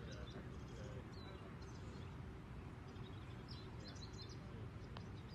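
Steady low outdoor background noise with small birds chirping: short, high chirps scattered all through.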